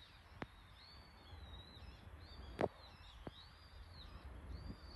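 Faint outdoor ambience in which a bird calls over and over in high, wavering notes, with a few sharp clicks, the loudest about halfway through.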